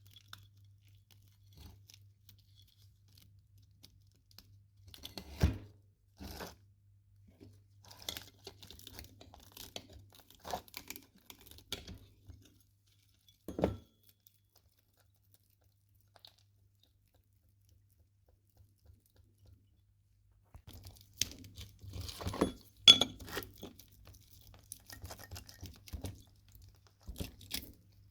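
Irregular knocks, clicks and scraping of metal parts and hand tools being handled while a microwave oven is taken apart. It goes quiet for several seconds in the middle, then a busy run of clatter follows. A faint steady low hum sits underneath.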